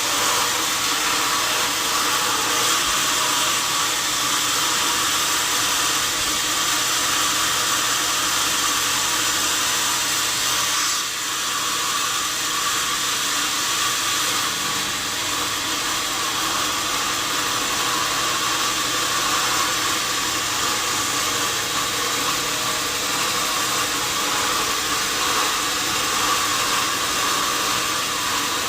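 Sawmill saw running steadily with a loud, even, hissing machine noise, dipping briefly about eleven seconds in.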